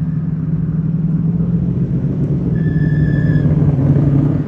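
Race car engines running with a steady low rumble that grows a little louder toward the end. A brief high tone sounds about three seconds in.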